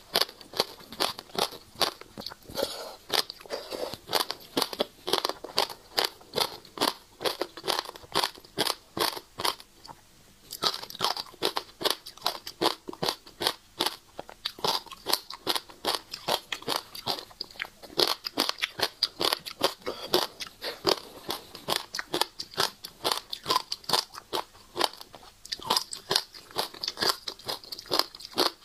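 Close-miked chewing of passion fruit pulp, the hard seeds crunching between the teeth in quick, irregular crunches, with a short pause about ten seconds in.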